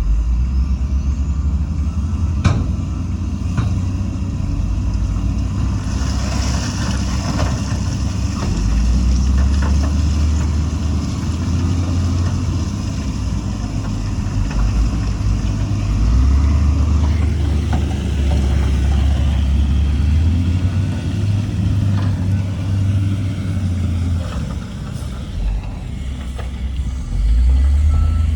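Heavy diesel engines of earthmoving machinery working, a deep rumble that rises and falls with load. There is a sharp clank about two and a half seconds in, and a hiss runs for roughly ten seconds from about six seconds in.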